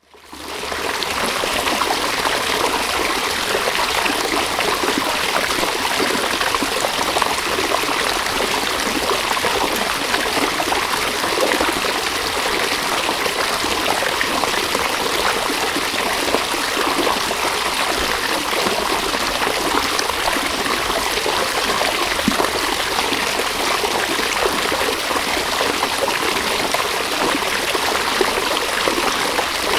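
River water flowing: a steady rushing and trickling stream, fading in over the first second.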